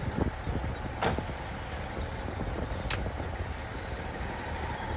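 Heavy earthmoving machinery's diesel engine running with a steady low rumble, with two sharp metallic clicks about one and three seconds in.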